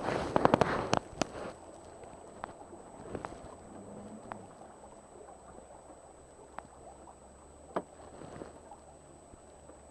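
Knocks and clicks aboard a small sailing boat with faint water sounds: a quick cluster of sharp knocks in the first second or so, then occasional single ticks over a faint low hum.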